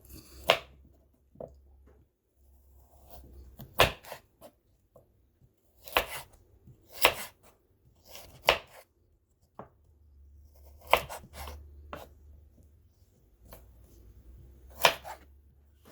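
Kitchen knife chopping a carrot on a cutting board: single sharp strikes at an uneven pace, roughly one every second or two, about a dozen in all.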